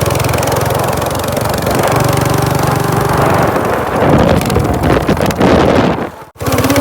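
212cc single-cylinder four-stroke minibike engine running steadily, then louder and rougher from about four seconds in as it is revved; the sound cuts off suddenly near the end.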